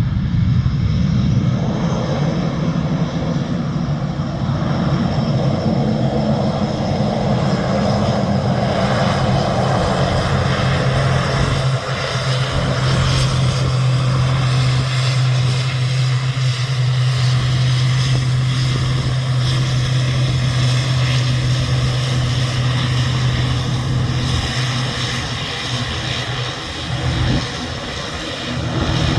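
Airliner's engines running loud and steady: a strong low hum under a wide hiss. The sound eases somewhat in the last few seconds.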